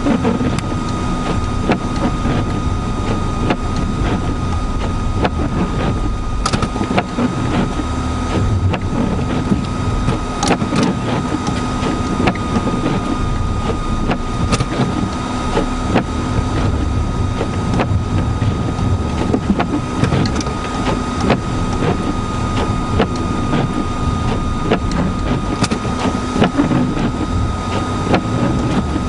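Vehicle running in a blizzard, heard from inside: a steady rumbling noise with a constant high whine and a lower hum, and scattered sharp ticks throughout.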